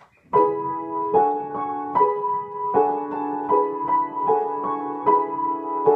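Piano playing the introduction to a simple song: chords and broken chords struck about once or twice a second, starting a moment in.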